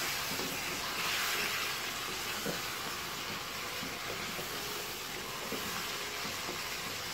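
Chicken pieces sizzling in hot oil with ginger-garlic paste in a wok, stirred with a wooden spoon: a steady frying hiss.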